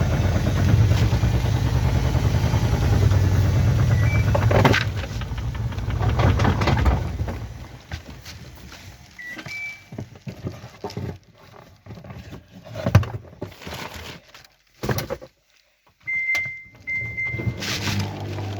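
Washing machine running with a steady low hum that dies away about seven seconds in, followed by scattered knocks and clunks and short electronic beeps, once near the middle and twice near the end.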